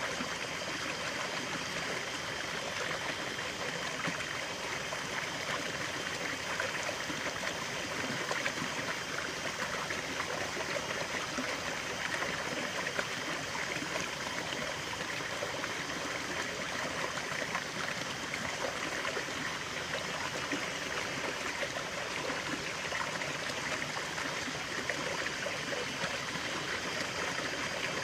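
A small stream of running water, trickling and babbling steadily over stones.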